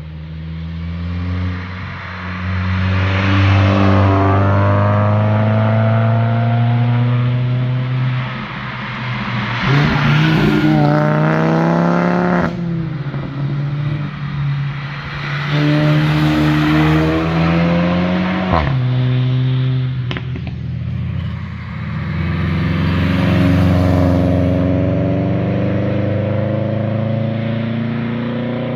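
A series of performance cars accelerating past one after another, loud engine and exhaust notes rising in pitch as they rev up through the gears.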